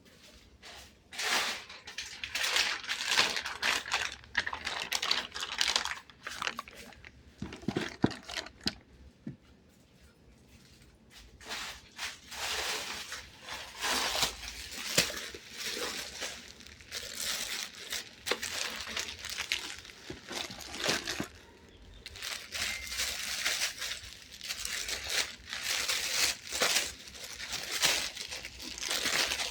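Plastic packaging crinkling as it is handled, in irregular bursts, with a pause of a few seconds near the middle broken only by a few light knocks.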